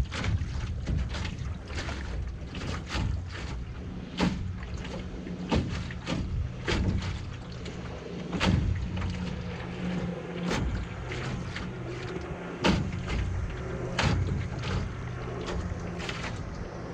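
Canoe paddling: paddle strokes knock and splash about every second and a half, over a steady low rumble of wind and water on the hull.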